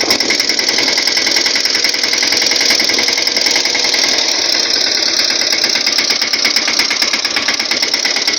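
Tractor engine running steadily with a rapid, even clatter.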